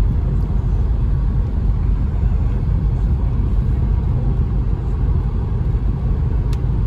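Steady low rumble of an Audi A6 cruising at speed in sixth gear, heard from inside the cabin with the windows up: engine and road noise.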